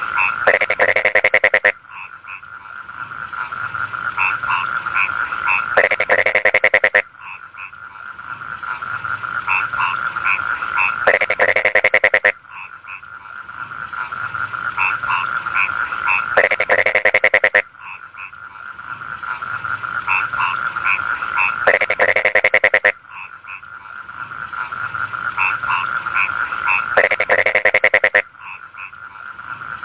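Chorus of rice-paddy frogs croaking. About every five seconds, a loud, roughly one-second burst of rapid-fire croaks stands out over a steady shrill trill.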